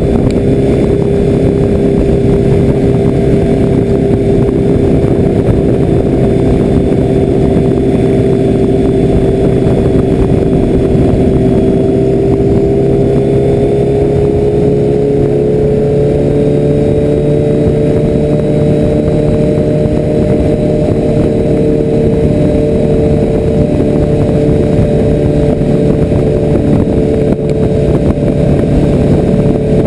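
Motorcycle engine running at a steady cruise, its pitch rising slightly about halfway through as it picks up speed, then holding steady.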